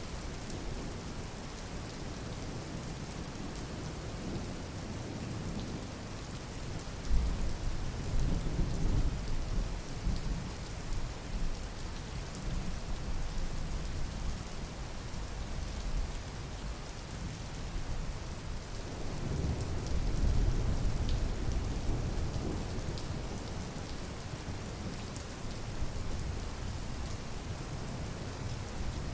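Steady rain falling, with low rolling thunder swelling up twice: first about seven seconds in, and again around twenty seconds.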